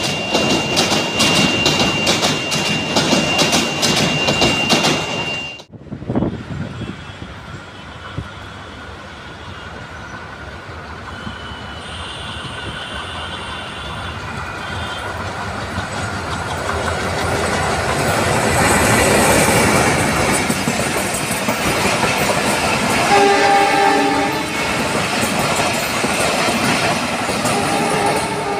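Passenger train coaches passing close, their wheels giving a rapid clickety-clack over the rail joints under a steady high squeal. After a sudden cut about six seconds in, a second train approaches and grows louder, and its locomotive horn sounds for a couple of seconds around 23 seconds in, before the coaches run past.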